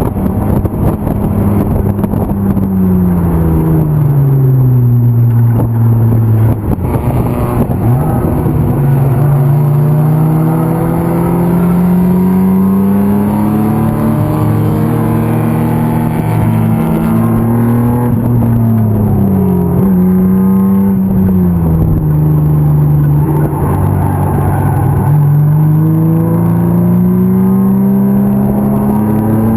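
BMW M50 inline-six engine in an E36 325 race car running hard on track. Its note drops under braking and climbs again under acceleration, several times over.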